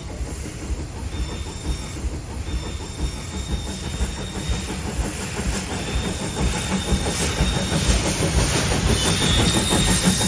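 Train running past with a fast rattle of wheel clicks and some hiss, growing steadily louder as it approaches.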